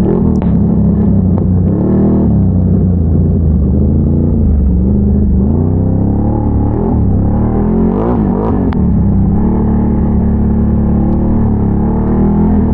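Can-Am Renegade ATV's big-bore V-twin engine running under way, its revs rising and falling repeatedly as the throttle is worked.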